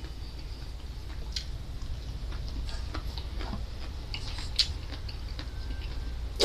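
Close-up eating sounds of raw salingongo seaweed: scattered small clicks and crackles of chewing and handling, over a steady low hum.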